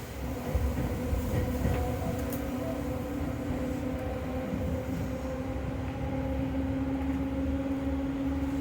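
Running sound inside a Seibu 101 series resistance-control electric train. The traction motors give a steady whine that rises slowly in pitch as the train gathers speed, over a low rumble of wheels on the rails.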